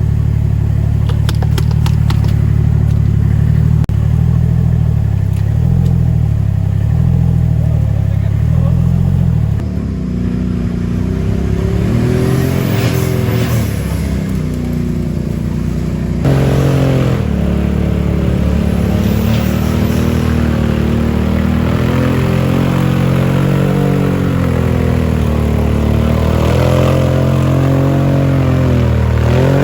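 Off-road 4x4 engine running hard, first fairly steady, then revving up and easing off again and again from about ten seconds in.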